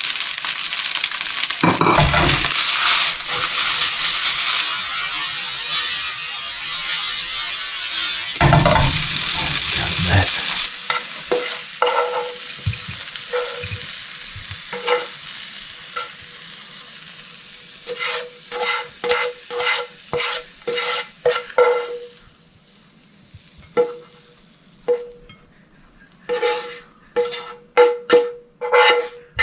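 Fried rice sizzling in a frying pan, with two louder scrapes as flaked salmon is tossed through it. After about ten seconds the sizzle dies down and a spatula scrapes and taps against the pan in quick runs, each stroke with a short metallic ring.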